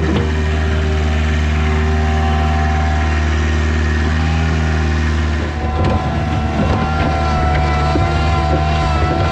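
Engine running steadily at working speed. About five and a half seconds in, the note dips and shifts, with some rattling.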